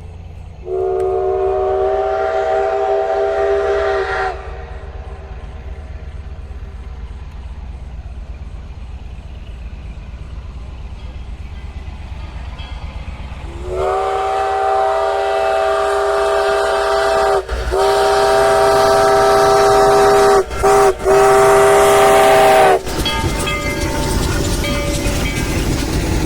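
A locomotive's multi-tone chime sounding at a level crossing: one blast of about three and a half seconds, then a long blast of about nine seconds broken twice near its end. A steady train rumble runs underneath, growing into the rolling noise of the train near the end.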